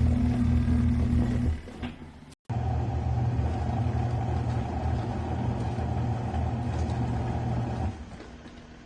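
Mini portable washing machine's motor running steadily with a low hum, cut short about two seconds in, then running again with a higher hum that dies down near the end.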